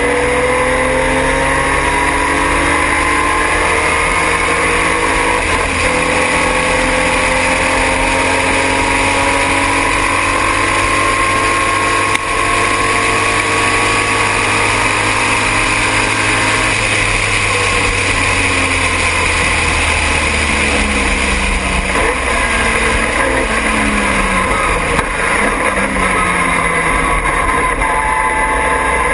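Triumph TR6 race car's straight-six engine running hard on track. The pitch climbs slowly through a long pull for about the first half, then drops and climbs again several times through gear changes, over steady wind and road noise.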